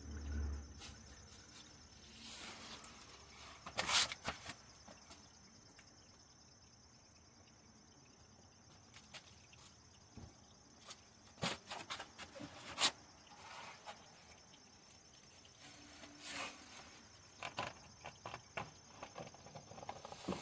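Scattered light clicks and knocks of parts and tools being handled under a car during an oil change, over a faint steady high-pitched tone.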